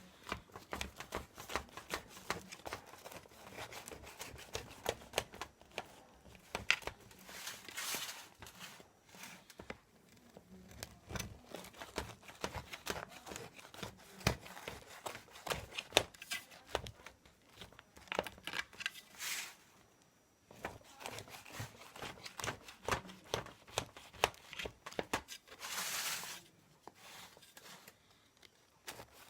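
Kitchen handling sounds: many light clicks and taps, with three short rustling, tearing swishes spread through.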